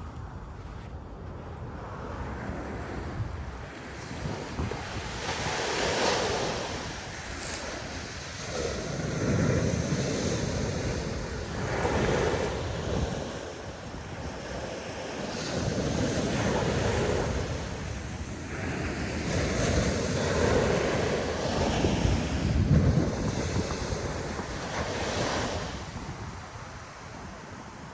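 Ocean surf breaking and washing up the beach in repeated surges every few seconds, with wind on the microphone.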